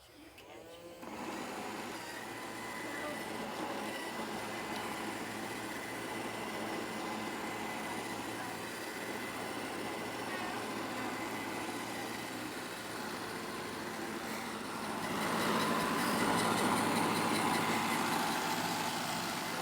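iRobot Roomba robot vacuum running a spot clean: a steady hum of its vacuum motor and brushes. It starts about a second in and gets louder about three-quarters of the way through.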